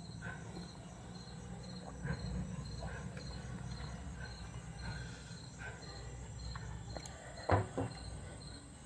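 Crickets chirping steadily, a short high chirp repeating about three times a second, with one brief louder sound near the end.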